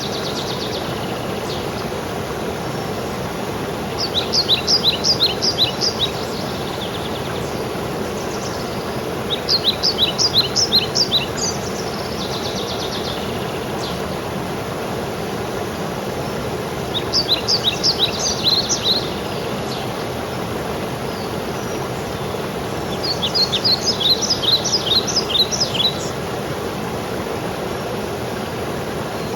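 Steady rushing of a waterfall, with a songbird singing a quick phrase of rapid high notes four times, each phrase lasting about two seconds.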